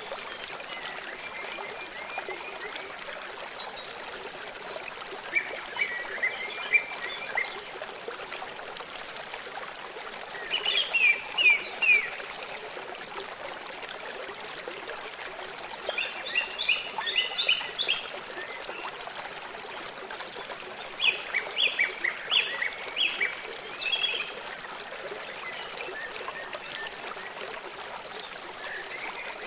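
A songbird singing short phrases of quick, falling notes, repeated about every five seconds, over the steady sound of a flowing stream.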